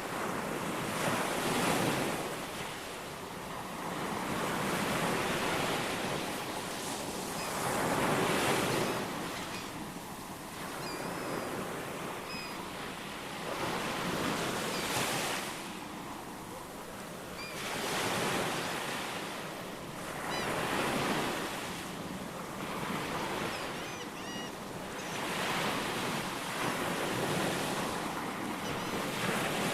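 Ocean waves breaking and washing in, swelling and ebbing every few seconds, with short, faint bird chirps now and then.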